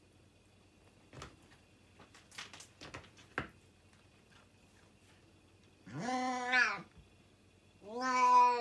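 Cat meowing twice, two loud drawn-out meows a little over a second apart, the second near the end, after a few faint clicks.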